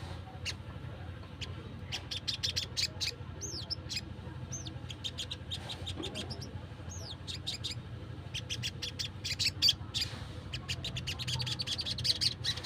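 Wild sogon (sunbird) calling: sharp, high ticking notes, some in quick runs, with a few short high whistles that fall in pitch.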